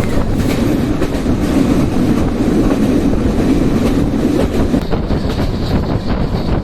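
Passenger train running at about 85–90 km/h, heard from aboard: a steady rumble of wheels on rail with clickety-clack over the rail joints.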